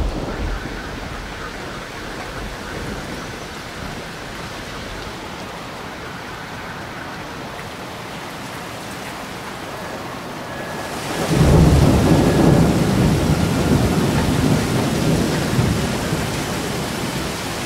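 Steady light rain falling on wet pavement and foliage. About eleven seconds in, a strong gust of wind hits, adding a loud rushing and low rumble of wind on the microphone that eases off slowly toward the end.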